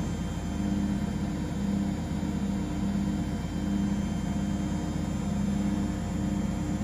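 Washing machines and tumble dryers running together: a steady motor hum with a low tone that swells and fades about once a second.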